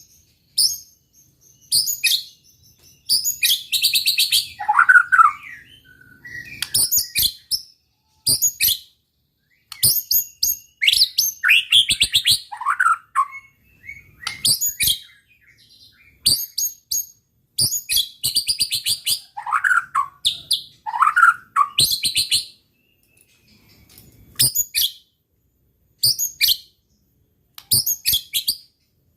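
White-rumped shama singing in vigorous bursts: rapid sharp, high chattering notes and short phrases with brief pauses between them, broken a few times by lower falling whistles.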